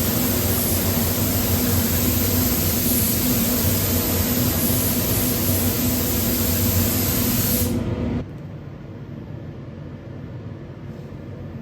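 Air spray gun hissing steadily while spraying paint, with a steady hum under it. Both cut off suddenly about eight seconds in, leaving a much quieter steady background noise.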